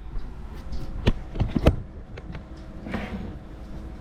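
Quiet electric pet clippers running steadily while trimming matted hair, with a few short knocks and clicks about a second and a half in.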